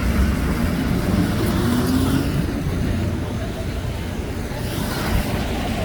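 City street traffic: a motor vehicle's engine rumbling, its pitch rising between one and two seconds in as it pulls away.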